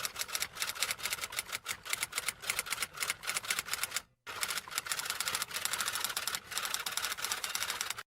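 Rapid typing clatter, keys struck many times a second in an uneven run, with a short pause about four seconds in.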